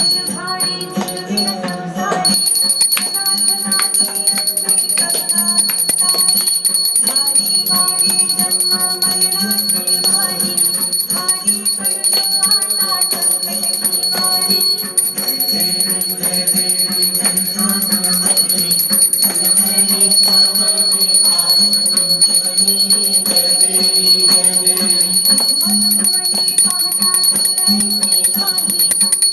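Hindu devotional aarti music for Ganesh, played continuously with jingling hand percussion and steady high ringing tones that begin about two seconds in.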